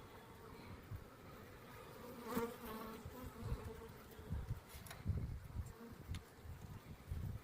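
Honey bees buzzing around a hive box in a steady hum, swelling louder about two seconds in as a bee flies close. Low irregular rumbling thumps run through the second half.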